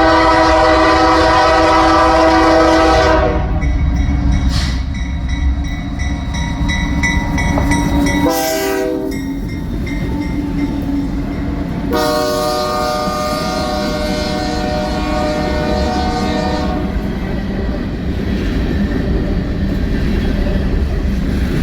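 Freight train led by a pair of GE diesel locomotives: the air horn blows a long chord, a short blast about eight seconds in, then another long chord from about twelve to seventeen seconds in. Under it the locomotives and rolling cars keep up a steady rumble.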